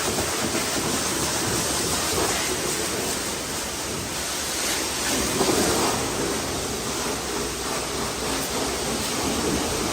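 Steady hiss of a high-pressure water jet spraying onto a car's bodywork, swelling slightly about halfway through.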